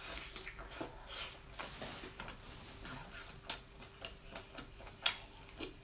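Close-up chewing of honey-glazed squid: a soft, irregular run of wet mouth clicks and smacks, with a sharper click about five seconds in.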